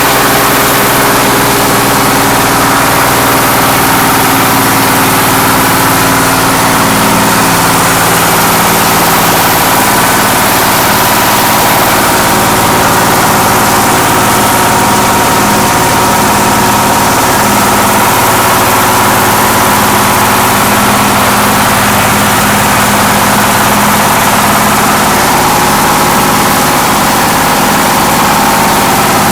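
Hammer mill driven by a 24 HP diesel engine, running loudly and steadily.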